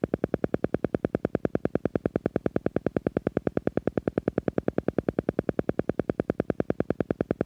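Silva Method sound: a synthesized tone pulsing on and off in a rapid, even beat, several pulses a second, low-pitched with overtones, used to guide the listener into a relaxed, meditative state.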